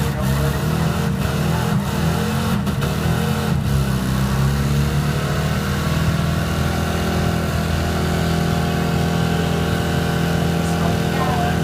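Vehicle engine held at high revs during a burnout competition run, its pitch wavering for the first few seconds and then held steady.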